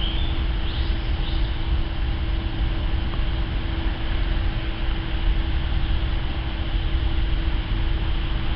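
Jet airliner engines running overhead: a steady low rumble with a constant hum, not rising or fading.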